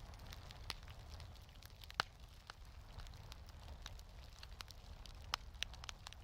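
Wood fire in a fireplace crackling, with irregular pops and snaps, the sharpest about two seconds in and another just past five seconds, over a low steady rumble.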